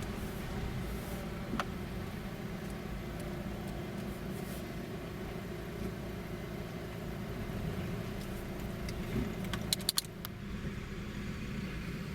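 Car engine and road noise heard from inside a moving car, a steady low rumble. A quick run of three or four sharp clicks comes near the end.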